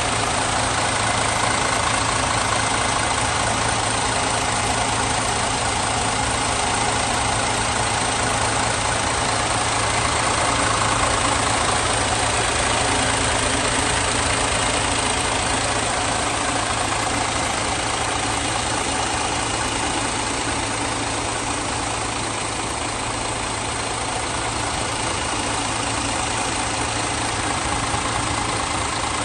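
Engine of a MAN Stacobus Celeris bus idling steadily.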